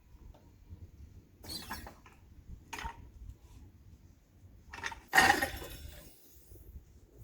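A few sharp metallic clanks and clinks from the floor jack and jack stands as the car is lowered. The loudest comes about five seconds in and rings on briefly.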